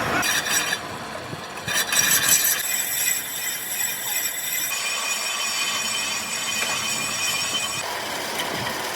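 Metalworking machinery running with a steady high hiss and several high whining tones, loudest from about two seconds in to about five seconds in.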